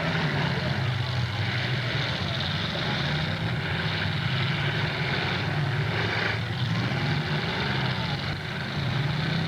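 Engines of several demolition derby cars running and revving as they manoeuvre in the arena, a steady low drone that rises and falls.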